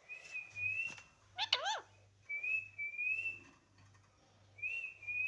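Pet parrot whistling: three steady high whistles, each about a second long with a slight rise. A short chirpy call comes between the first two.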